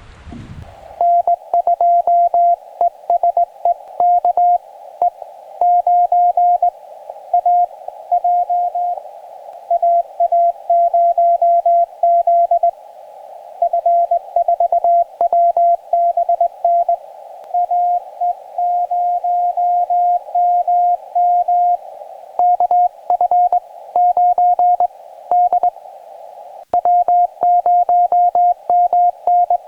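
Morse code (CW) from a portable QRP ham transceiver: a single tone of about 700 Hz keyed rapidly in dits and dahs, over a narrow band of receiver hiss with scattered clicks.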